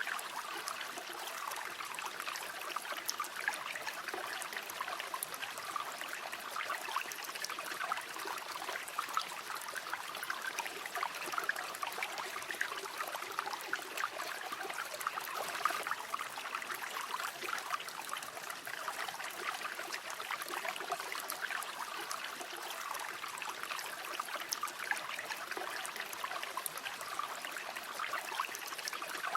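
Shallow river water running and trickling, a steady babbling with fine splashy detail and no deep rumble.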